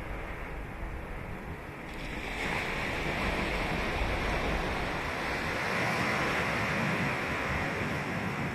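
Ocean surf breaking and washing on the shore. The rush of the water grows louder about two and a half seconds in and holds steady after that.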